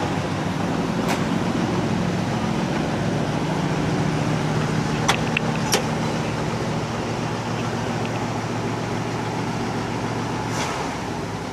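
A vehicle engine running steadily at idle, a low even hum, with a few sharp clicks; the hum drops back near the end.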